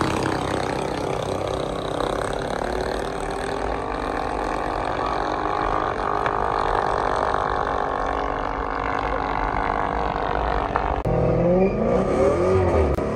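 Vehicle engine running steadily, then revving up and down in quick swings near the end.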